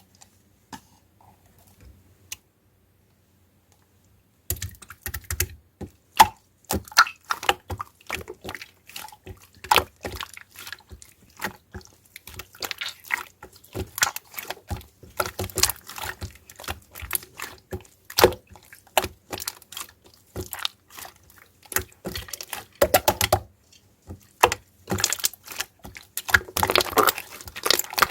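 Two-layer slime being squeezed and poked by hand, making dense, irregular wet clicks and little popping crackles. Near silence for the first four seconds or so before it starts.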